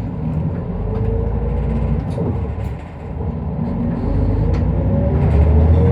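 Interior sound of an Isuzu Erga Mio one-step city bus's diesel engine pulling away and accelerating, its pitch rising. The pitch and loudness drop briefly about three seconds in, like a gear change, then rise again.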